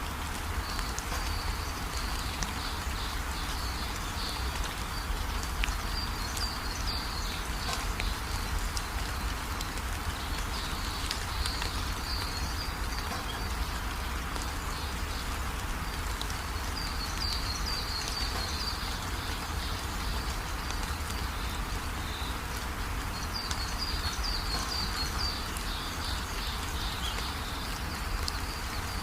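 Steady rain with a low rumble, and a recurring high-pitched chirping trill from a bird or insect that comes in short spells every five or six seconds.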